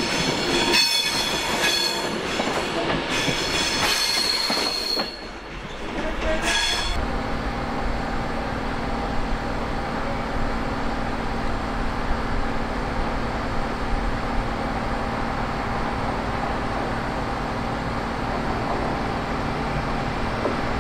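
Train wheels squealing against the rails, several high shrill tones that waver and break off, for the first few seconds. About seven seconds in the squeal stops abruptly and a steady train drone with a low hum carries on.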